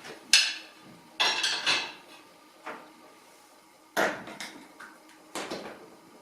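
Crockery and cutlery being handled: about six or seven separate clinks and knocks of dishes, spaced irregularly with short pauses between them.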